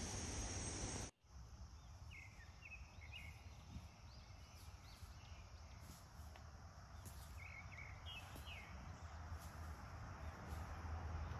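A steady hiss with a high insect trill cuts off about a second in. Then comes quiet woodland ambience, with small birds giving short chirps in two brief groups a few seconds apart.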